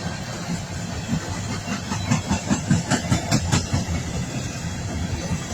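Cars of a long coal train rolling past with a steady low rumble. About two seconds in there is a quick, rhythmic run of clacking from the wheels.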